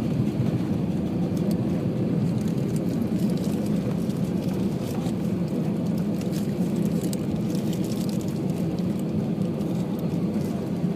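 Cabin noise inside an Airbus A319: a steady low rumble from the engines and airframe, with light scattered rattling clicks.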